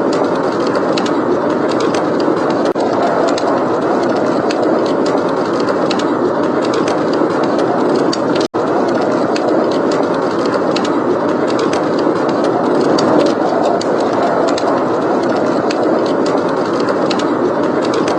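Steady blizzard wind noise with a fireplace crackling over it in frequent sharp pops and snaps. The sound cuts out for an instant about eight and a half seconds in.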